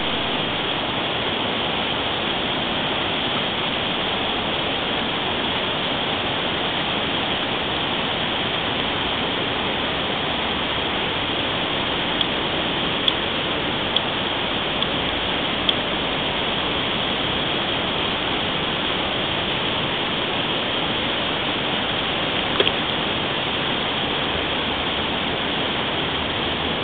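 Whitewater of a river rapid rushing steadily, with a few brief clicks about halfway through and once more later on.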